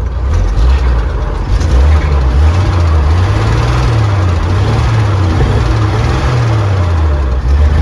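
1940–41 Chevy army truck's six-cylinder engine running, its speed rising and falling several times.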